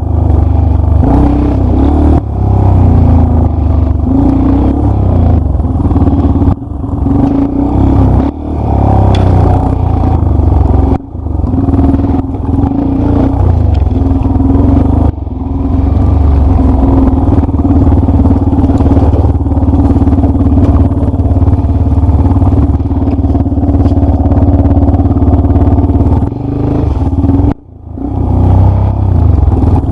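Dirt-bike engine running under load on a trail ride, the throttle opening and closing over and over. The engine note drops briefly several times and cuts back hard for about a second near the end before picking up again.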